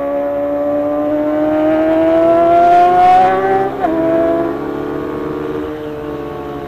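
Kawasaki ZX-25R's 250 cc four-cylinder engine pulling hard under acceleration, its high-pitched note climbing steadily; about four seconds in a gear change drops the pitch, and the engine then runs on and slowly eases off.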